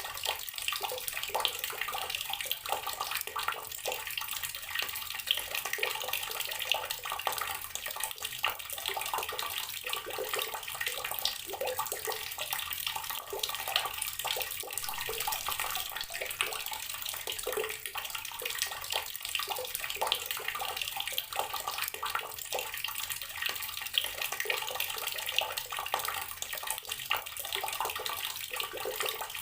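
Water running steadily from an outdoor garden tap, splashing continuously with many small irregular splashes.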